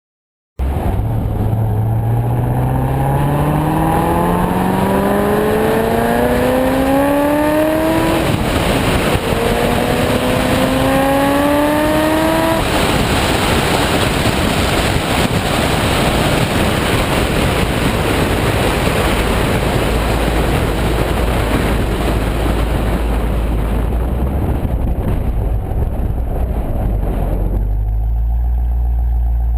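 2005 Corvette C6's LS2 V8 through Kooks long tube headers, X-pipe and Corsa cat-back exhaust under hard acceleration: pitch climbing through one gear, a shift about 8 seconds in, then climbing again. After that its note is lost in a steady rushing noise at speed, which drops to a low steady hum near the end.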